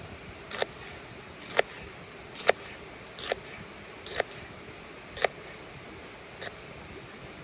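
A series of sharp knocks, about one a second, the last few weaker and spaced wider.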